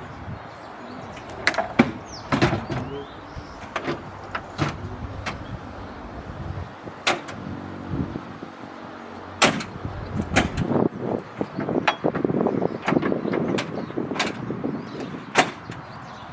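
Irregular sharp knocks and clanks of hands-on work on the car's body, with a busier stretch of rattling in the second half.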